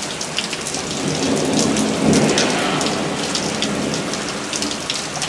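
Heavy thunderstorm rain pouring down steadily, with many sharp ticks of drops hitting close by.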